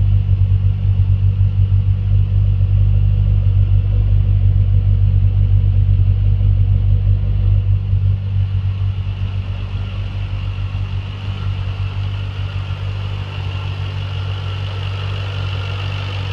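Callaway-supercharged C6 Corvette V8 idling steadily, a deep even exhaust rumble for the first half. After about eight seconds the rumble drops back and a thin high supercharger whine rises over it toward the end.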